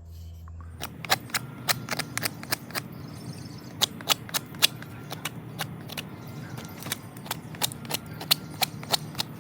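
A knife whittling a decayed tulip poplar fire board, each shaving stroke a sharp crisp snap, coming irregularly about two to three times a second from about a second in.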